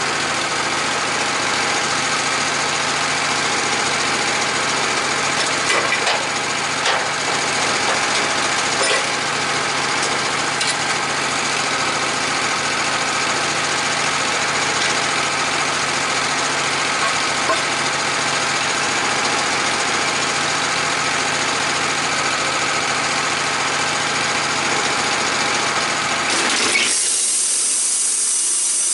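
Sawmill engine running steadily under load as the blade cuts through a red oak log. About 27 seconds in the engine sound drops out suddenly, leaving a steady high hiss.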